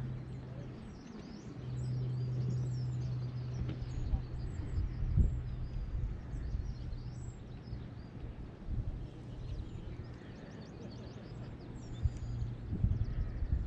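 Small birds chirping and twittering in quick short calls, over a steady low hum and a few low thumps.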